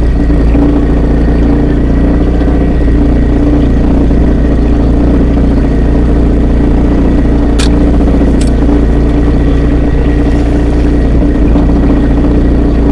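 Small boat outboard motor running steadily at trolling speed, a loud unchanging drone with a steady hum. Two short clicks about halfway through.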